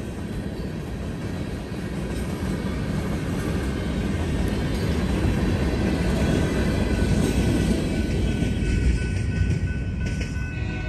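Freight train of covered hopper cars rolling past at a grade crossing, a steady rumble of wheels and cars that swells and then eases as the last car goes by near the end.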